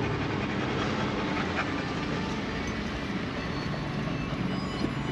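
Old Mitsubishi Montero 4x4 driving along at a steady pace, its engine running evenly under a continuous rumble of tyres and road noise.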